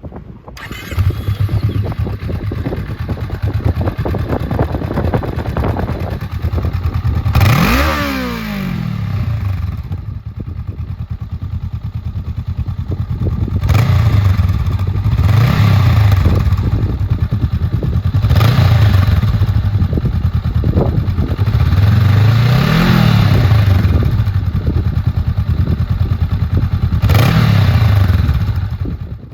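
Honda Rebel 500 motorcycle's parallel-twin engine catching about a second in and idling, blipped five times, with the pitch rising and falling each time.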